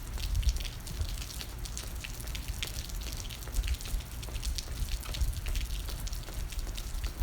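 Rain falling, with many irregular drips and pattering drops close to the microphone over a steady low rumble.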